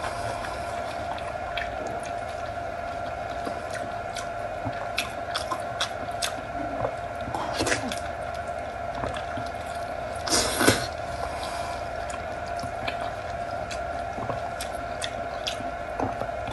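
Close-miked wet chewing, lip-smacking and sucking on fatty braised pork knuckle, with scattered sticky clicks and a louder slurp about ten and a half seconds in. A steady faint hum runs underneath.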